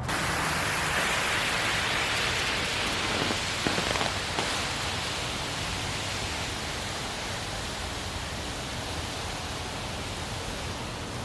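Tarp piled with cut tree limbs and yard debris being dragged across the ground: a steady rustling scrape that slowly eases off, with a few faint clicks about four seconds in.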